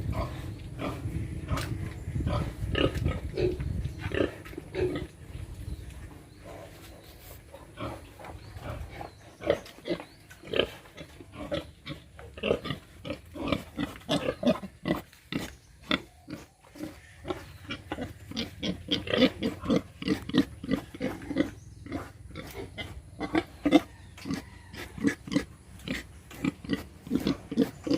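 Domestic pigs grunting: many short grunts in quick succession, overlapping throughout.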